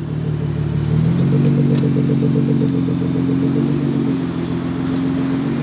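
Nissan GT-R's twin-turbo V6 running at low revs as the car creeps slowly along, its note stepping up slightly about a second in and then holding steady.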